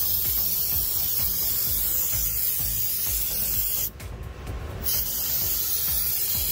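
Spray cleaner hissing out of its can in long continuous bursts, with a short break about four seconds in.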